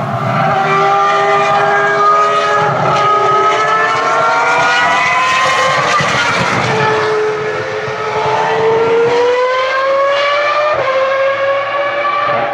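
Ferrari racing car's engine running at high revs, its pitch climbing slowly, dipping about seven seconds in, then climbing again.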